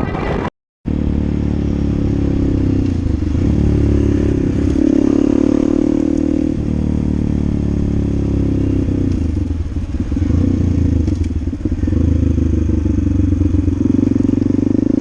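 Motorcycle engine running on the road, its pitch rising and falling with throttle and gear changes. The sound starts after a brief dropout about half a second in.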